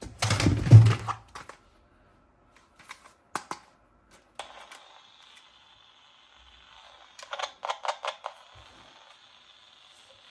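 Toy guns being handled: a bump with rattling clicks at the start, a few scattered clicks, then a quick run of clicks about seven seconds in, over a faint steady hiss from about halfway.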